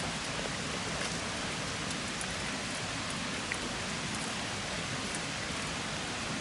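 A steady, even hiss with a few faint ticks scattered through it.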